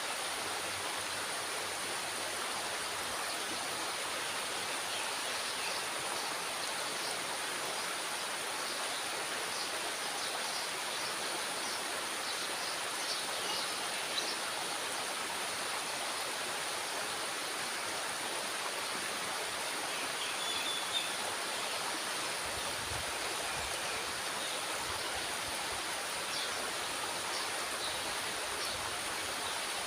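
Steady rush of water pouring out below a dam's sluice gate, with faint high ticks now and then.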